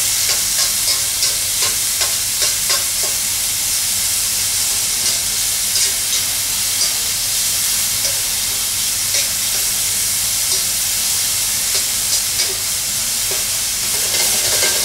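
Diced chicken and smoked bacon frying in a hot pan: a steady sizzle, with scattered clicks of the utensil stirring against the pan.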